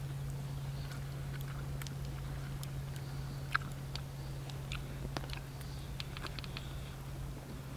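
People eating bread by hand, with scattered small clicks and crunches of biting and chewing, over a steady low hum.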